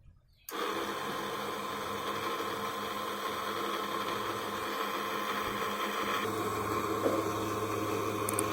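A small motor switches on about half a second in and runs steadily with a hum; its tone shifts about six seconds in, as if a load comes on.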